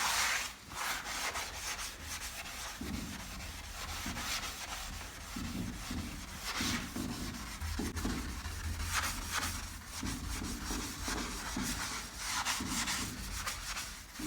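Sponge scrubbing the glass of a fireplace door with a thick cleaning cream, in repeated rubbing strokes.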